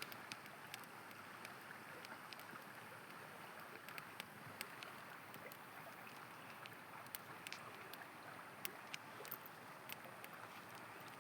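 River water flowing steadily, with a campfire crackling over it in sharp, irregular pops.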